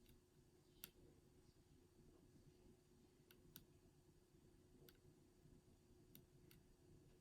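Faint clicks of a power bank's button being pressed, about seven scattered irregularly, switching its flashlight between modes.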